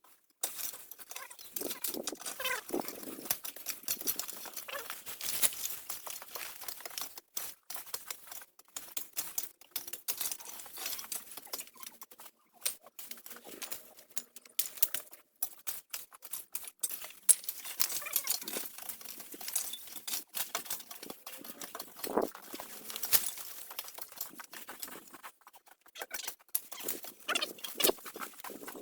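Irregular rustling, scraping and light knocks of debris being handled during cleanup, broken by several abrupt short gaps.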